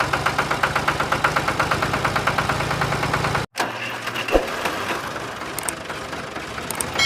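An engine running with an even, knocking rhythm of several beats a second. It cuts out abruptly about three and a half seconds in, then carries on more quietly.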